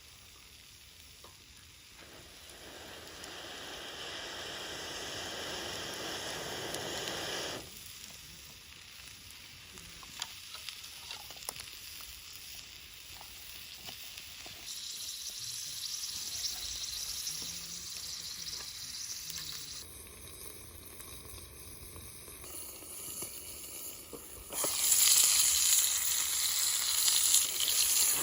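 Meat sizzling as it cooks over a campfire, in several short takes that cut in and out abruptly. The sizzle is loudest and brightest near the end.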